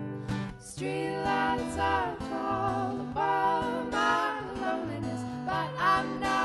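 Live folk band playing, with acoustic guitar and bass; several voices come in singing together in harmony under a second in.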